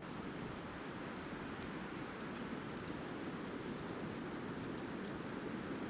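Small songbird giving short, thin, high call notes, about four of them spaced a second or more apart, over a steady rushing noise.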